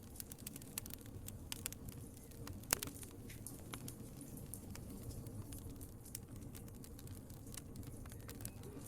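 Wood fire crackling: irregular sharp snaps and pops over a low steady rumble of flames, with one louder pop a little under three seconds in.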